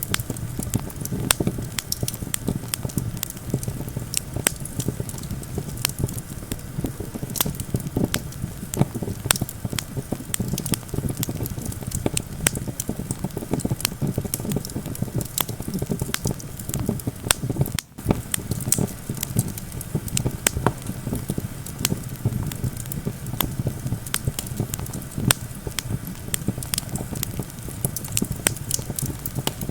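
Wood campfire crackling, with frequent sharp pops and snaps over a steady low rumble of wind. The sound cuts out for an instant a little past halfway.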